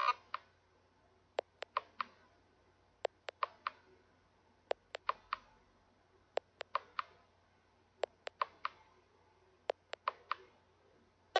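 Cassini radar echoes from the surface of Saturn's moon Titan, turned into sound: sharp pings in groups of about four, each with a short ringing tail, a group about every second and a half.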